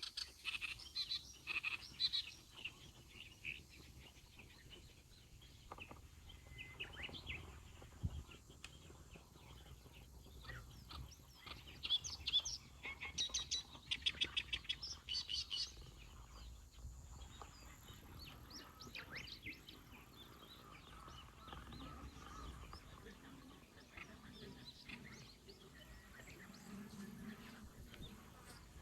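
Small birds chirping and calling, with a quick run of repeated trilled notes about twelve seconds in, over a faint low background hum.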